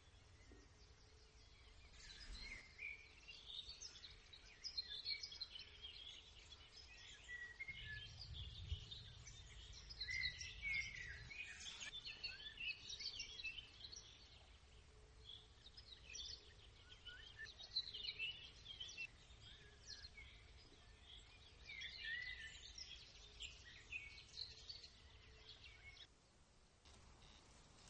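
Several wild birds singing and calling, a busy mix of short chirps and twitters, starting about two seconds in and cutting off abruptly near the end.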